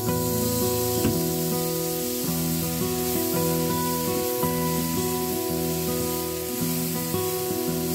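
Background instrumental music with held notes, over the sizzling of shishito peppers and dried anchovies stir-frying in a pan.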